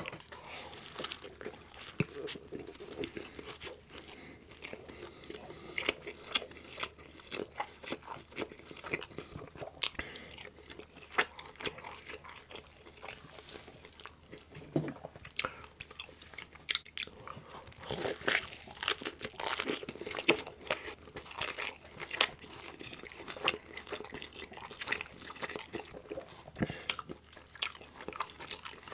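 A person biting and chewing pizza, with a dense run of short crunches and wet mouth clicks throughout.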